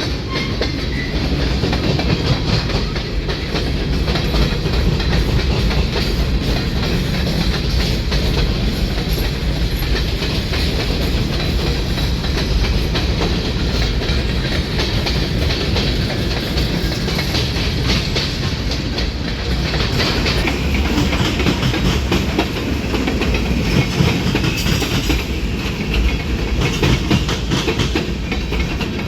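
Freight train rolling by, its car wheels clacking steadily over the rail joints under a continuous low rumble.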